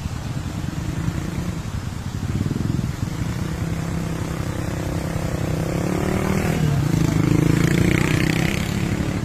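A motor vehicle engine running close by with a fast, even pulse, its pitch rising about six seconds in as it speeds up.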